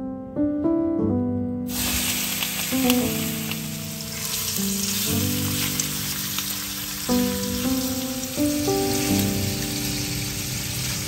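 Raw shrimp sizzling in hot olive oil in a stainless steel frying pan. The sizzling starts suddenly about two seconds in and then holds steady, with gentle background music of held notes running under it.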